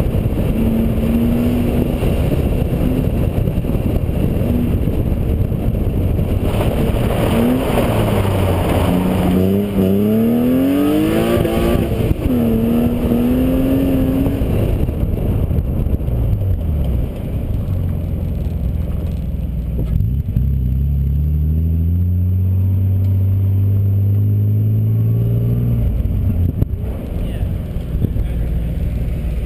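A BMW's engine heard from inside the cabin, revving hard up and down as the car is driven through an autocross course. About halfway in, the revs fall away, and the engine then runs at low revs as the car drives slowly.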